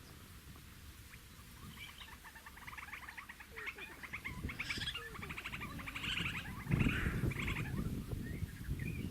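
Fork-tailed drongo calling: a fast, dense series of short chattering notes that builds from about two seconds in. A low rumble joins under the calls in the second half and is the loudest sound there.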